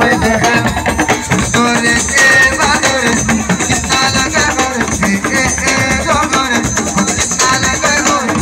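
Senegalese assiko band playing: fast, dense percussion with a melody line that bends in pitch above it.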